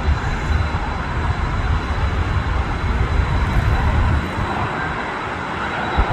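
Jet aircraft engines running, a steady loud rushing noise with a thin high whine over it and a rumble underneath that eases a little over the second half.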